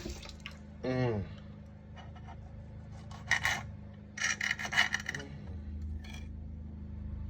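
Scraping and rubbing in two short rough bursts, around the middle. A short falling vocal sound comes about a second in, over a steady low hum.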